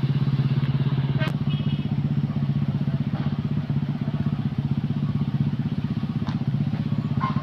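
An engine idling steadily, close by, with a fast even pulse that does not change. A sharp click comes a little over a second in, and fainter ones near the end.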